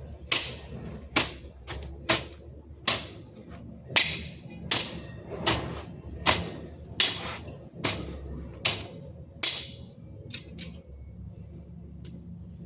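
A hand tool striking repeatedly in a steady working rhythm, about a dozen sharp blows a little under a second apart, typical of yard work such as chopping or hacking at ground or vegetation. The blows stop about ten seconds in, leaving a couple of faint clicks.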